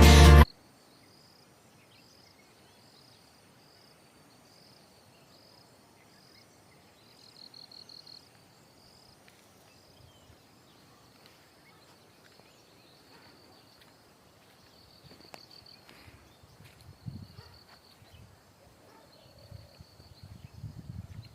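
Faint insect chirping, a high note repeating in short even pulses, with a few low rumbles near the end.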